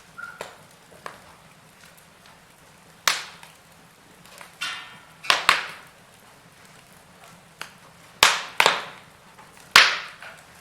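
Wood fire in a fireplace crackling, with a string of sharp pops a second or two apart and a brief hiss about four and a half seconds in.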